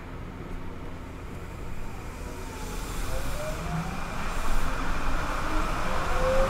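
Kobe New Transit 3000 series rubber-tyred automated train pulling away: the whine of its Mitsubishi SiC VVVF inverter comes in about halfway through as rising tones, over running noise that grows louder as the train picks up speed.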